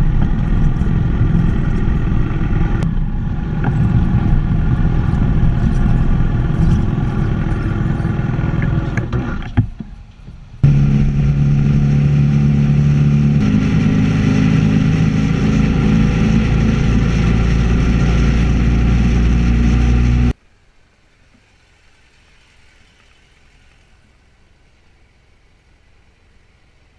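Motorcycle engine running at steady road speed, heard in two edited segments; the first fades out, and after a sudden cut about ten seconds in a second segment holds a steady engine note. It cuts off abruptly about twenty seconds in, leaving only faint background for the last seconds.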